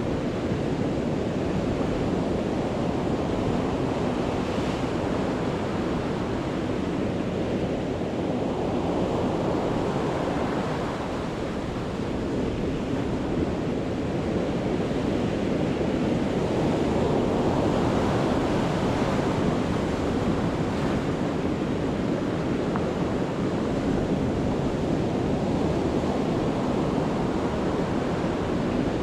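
Sea waves breaking on a beach in a continuous rushing wash of surf, with a louder surge every several seconds as each wave breaks.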